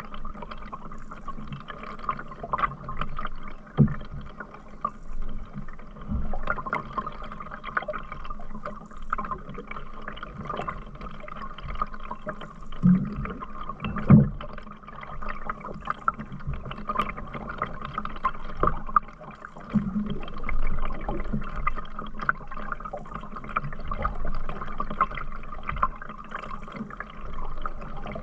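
Canoe being paddled: water splashing and gurgling from the paddle strokes and against the hull, with a few louder thumps about 4 seconds in and again around 13 to 14 seconds.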